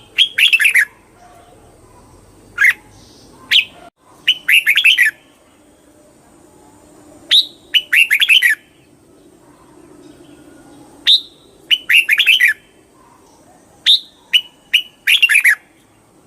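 Red-whiskered bulbul singing: short, quick phrases of several clear notes, repeated every three to four seconds, each often introduced by one or a few single sharp notes.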